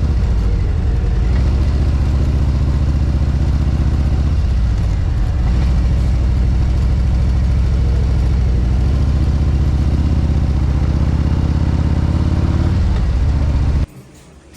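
Harley-Davidson Road Glide V-twin engine running under way, with the pitch dipping and recovering briefly about four to five seconds in. The sound cuts off abruptly just before the end.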